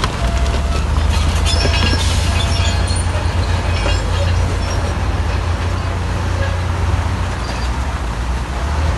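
Crawler bulldozer's diesel engine running steadily under load, with its steel tracks clanking and squealing. The squeals are strongest in the first three seconds.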